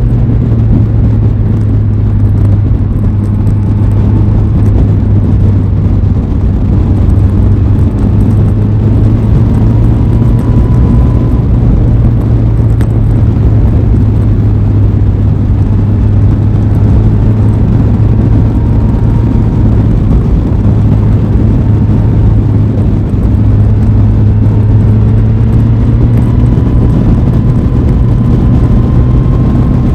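Aprilia Tuono 660's parallel-twin engine holding a steady speed under way: a loud, constant drone with only slight changes in pitch, mixed with heavy rushing noise.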